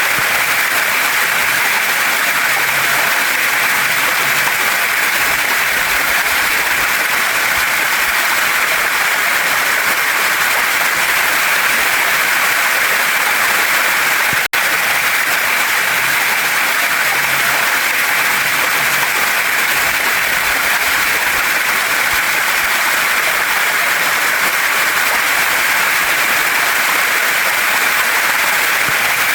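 Waterfall and stream water rushing steadily, an even hiss with no let-up except a momentary dropout about halfway through.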